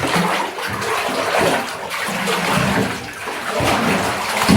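Water churning and splashing steadily as a small taped model wagon is pushed down into it and held under.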